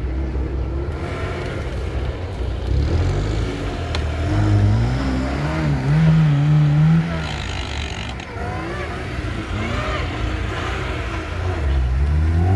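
Lada Niva's engine revving up and down under load as the car claws up a steep sandy bank. The revs climb to a peak around six seconds in, drop sharply about a second later, and rise again near the end.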